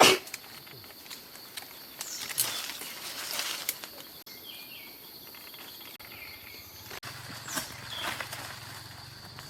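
Forest ambience: a steady high insect drone with a few short chirps, a sharp click at the very start, and bursts of rustling among leaves and branches.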